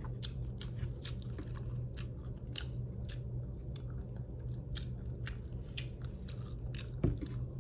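A person chewing food close to the microphone, with irregular sharp mouth clicks a few times a second over a steady low hum.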